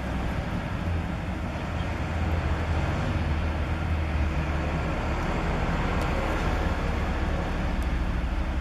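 Steady low rumbling hum under an even hiss of steady rain, with no distinct events.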